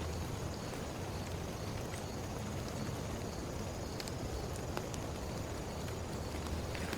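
Heavy rain falling steadily, with scattered sharper drops tapping now and then.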